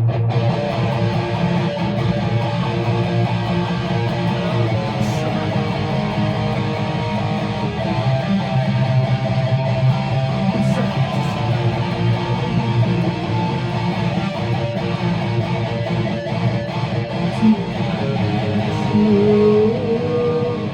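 Guitar playing an instrumental passage, chords ringing steadily with no singing.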